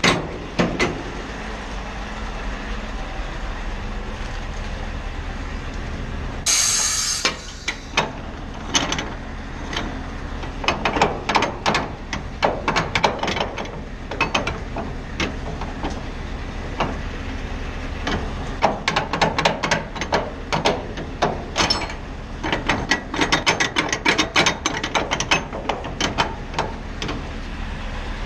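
Scania R520 V8 truck engine idling low, with a short hiss of air about six and a half seconds in and long runs of rapid clicking and rattling knocks.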